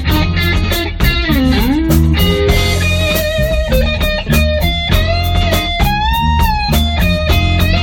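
Blues band playing an instrumental passage: an electric guitar lead with bent, wavering notes over a bass line and a steady drum beat.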